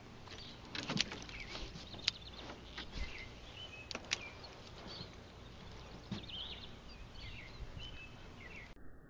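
Small birds chirping on and off, short high calls, with a few sharp clicks about one, two and four seconds in.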